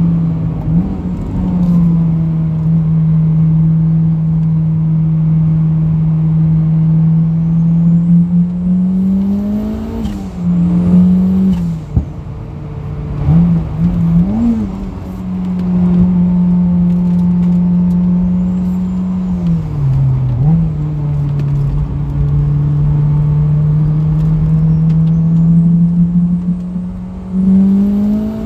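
Turbocharged Honda K20 inline-four running hard at track speed, holding a steady note around 5,000 rpm. The note breaks and jumps several times in the middle with downshifts, and rises again near the end under full throttle, with faint high whistles rising over it now and then. A vibration runs through it that the owner puts down to worn-out engine mounts.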